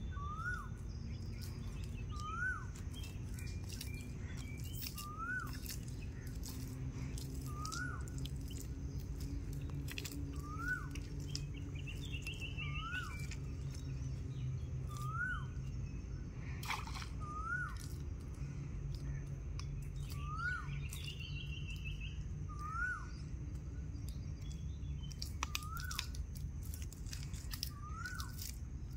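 A bird repeats a short rising call about every second and a half. Another bird gives a brief trill twice. Underneath are scattered sharp clicks and a steady low hum.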